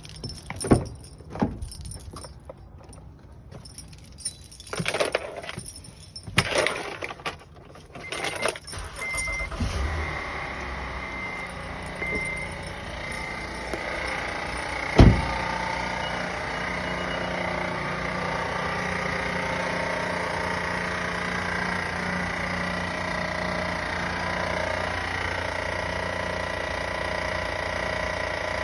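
Keys jangling and a few knocks, then the van's engine starts about a third of the way in and runs steadily with a thin, high, steady whine over it, the van's weird noise. A single sharp thump about halfway.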